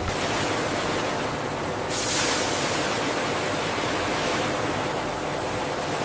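Steady rushing hiss of sugar-factory processing machinery, with a faint steady hum beneath. The hiss turns brighter and louder about two seconds in.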